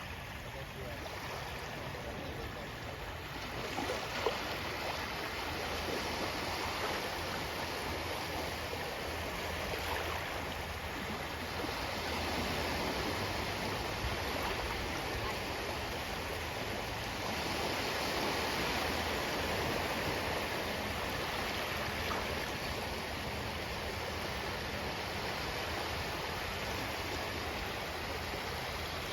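Ocean waves breaking and washing on a shore, a steady rush that swells and eases slowly, louder about halfway through. A few faint clicks come about four seconds in.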